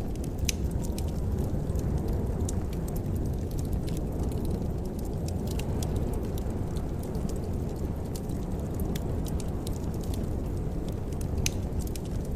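Fireplace wood fire burning: a steady low rumble with scattered sharp crackles and pops.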